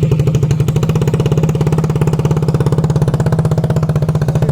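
KTM RC 200's single-cylinder engine idling loud and steady with a fast, even beat, run free-flow with its exhaust open and no pipe fitted.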